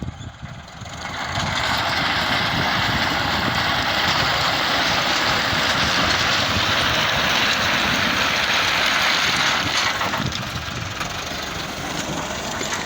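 Heavy road-construction machinery with its diesel engine running. A loud, even rushing noise over the engine comes up about a second in and eases about ten seconds in.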